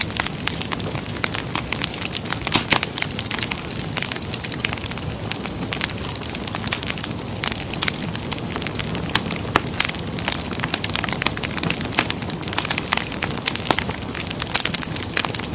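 Wood fire crackling in a fireplace: a steady low hiss and rumble with many sharp, irregular pops and snaps.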